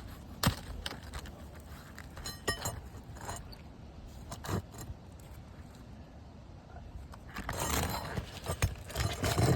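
Roofing nails jingling and clinking against each other, with scattered sharp taps and a scraping rustle of shingle near the end.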